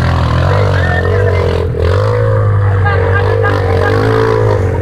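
Motocross motorcycle engines running on the track, their pitch rising and falling over and over as the riders work the throttle, over a steady low drone.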